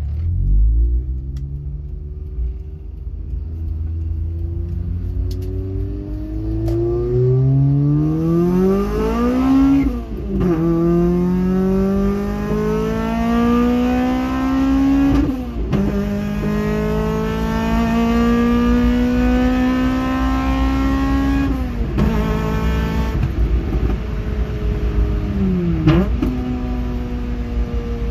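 2003 Pontiac Vibe GT's four-cylinder engine, breathing through a PPE header, 2.5 in stainless exhaust and Borla XS muffler, accelerating hard through the gears. The exhaust note climbs steadily in pitch and drops sharply at each upshift, about ten, fifteen and twenty-two seconds in, then dips briefly near the end.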